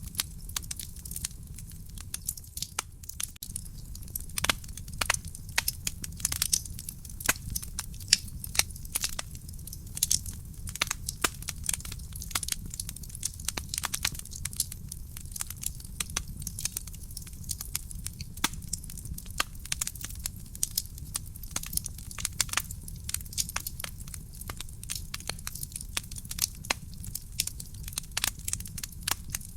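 Wood fire burning in a fireplace: frequent sharp crackles and pops from the burning logs at an irregular pace, over a steady low rumble of the flames.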